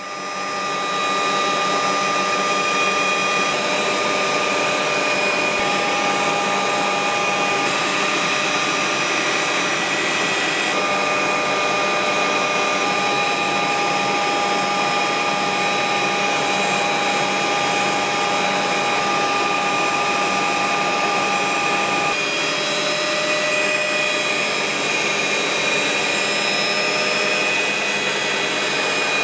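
Aircraft engine running steadily: an even rush of noise with several high whining tones over it.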